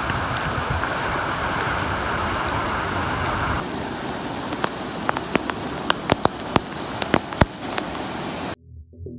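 Steady rushing of heavy rain and water. About three and a half seconds in it changes abruptly to lighter rain, with scattered sharp taps of drops striking a hard surface. Near the end it cuts off into music.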